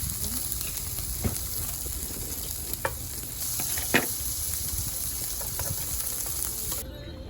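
Food sizzling and frying over heat, a steady hiss broken by a few sharp clicks of a utensil against the pan. The sizzle cuts off suddenly shortly before the end.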